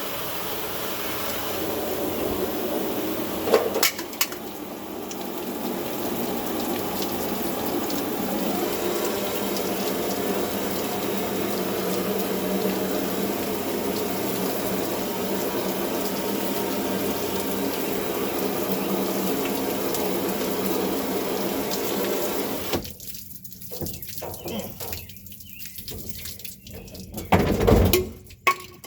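Garden hose running water into a kayak hull through its drain hole, a steady rushing that stops about 23 seconds in. A click comes a few seconds in, and a few knocks and a loud thump follow near the end.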